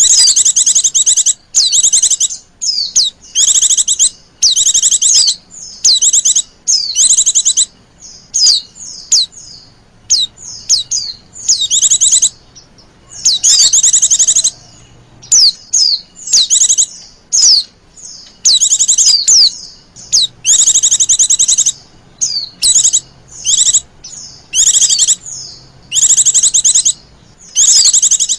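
Female white-eye (pleci) calling in loud, high, rapid trilled bursts, about one every second or so, with short sweeping chip notes between them. This is the female's coaxing 'lenjeh manja' call, used as a lure to draw and excite male white-eyes.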